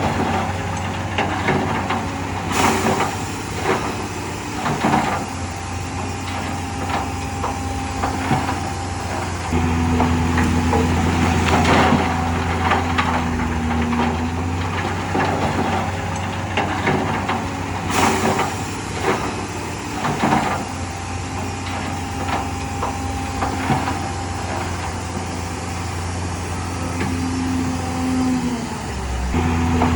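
Heavy diesel construction machinery running, its engine note strengthening and easing with load, with frequent metallic clanks and knocks.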